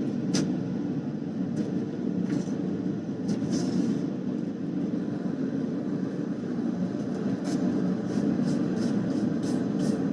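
A forge running with a steady roar, under sharp hammer strikes on hot steel. The strikes come a few at a time at first, then faster in the last few seconds, as the bar is hot cut with a small axe.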